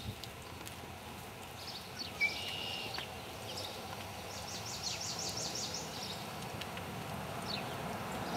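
Small birds chirping over steady outdoor background noise, with a short whistle about two seconds in and a quick trill of about ten notes near the middle. A horse's hoofbeats on arena sand sit low beneath them.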